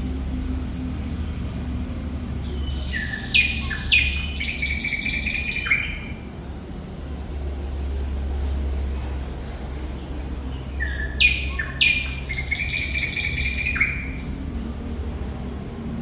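Thrush nightingale singing two song phrases. Each phrase opens with sharp whistled notes and clicks and runs into a rapid, rattling high trill. A steady low hum runs underneath.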